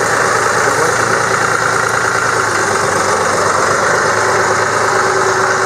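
A vehicle engine idling steadily, a constant loud drone.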